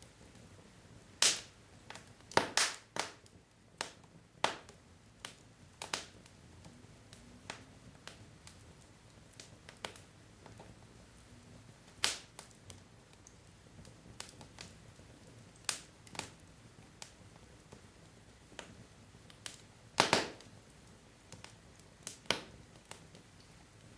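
Wood fire crackling: burning logs give off irregular sharp pops and snaps over a faint low hiss, with a few louder pops about a second in, near 2.5 s, 12 s and 20 s.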